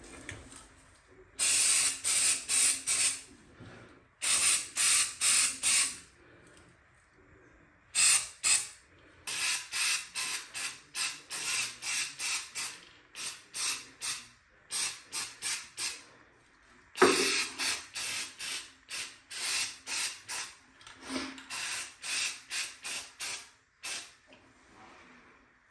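Short spurts of spray from an aerosol can, dozens in quick succession at about two a second, in several runs with brief pauses between: spot-spraying a touch-up coating over sanded chips.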